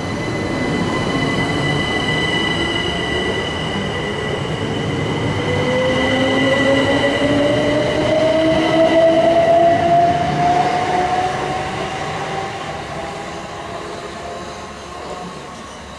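Passenger multiple-unit train accelerating, a whine rising steadily in pitch, with a thin high steady tone that fades out about halfway through. It is loudest around two-thirds of the way in, then dies away.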